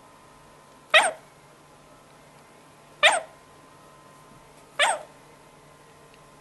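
African grey parrot giving three short, sharp calls, about two seconds apart.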